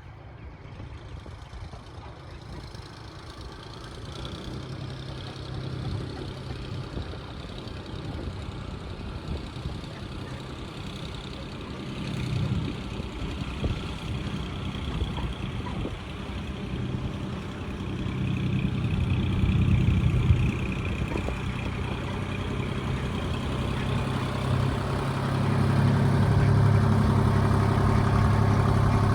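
Tractor engine running with a steady low hum, getting steadily louder and closest near the end.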